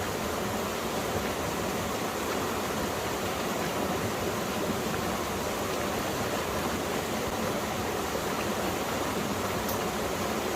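Mountain valley stream flowing over rocks, a steady, even rush of water.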